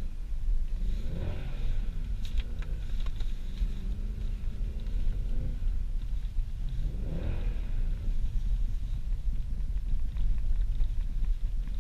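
A tuned Mercedes C63 AMG V8 revving up and dropping back twice, about a second in and again about seven seconds in, holding a steady drone between the two, over a constant low rumble.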